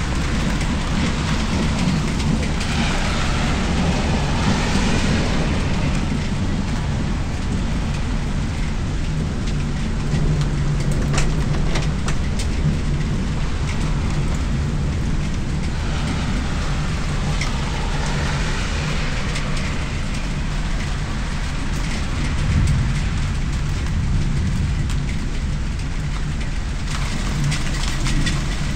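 Steady rain falling and pattering on surfaces close by. Twice a car swishes past on the wet street, a few seconds in and again about halfway through, and a few sharp drip ticks land near the camera.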